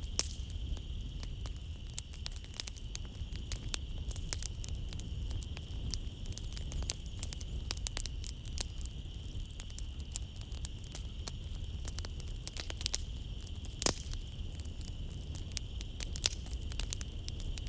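Wood fire crackling in a fireplace: irregular sharp pops and snaps over a low steady rumble, with one louder pop near the end. A steady high trill of night insects, such as crickets, runs underneath.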